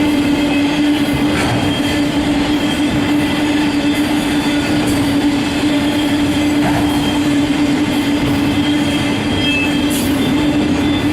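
Freight train cars rolling past at speed: a continuous loud rumble with a steady droning tone running through it.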